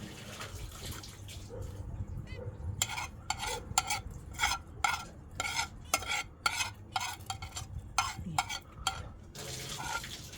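Kittens eating, with a fast, irregular run of wet chewing clicks from about three seconds in until shortly before the end.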